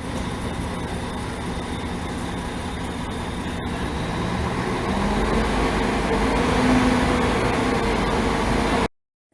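Bus engine running close by, growing louder from about halfway through as its note rises.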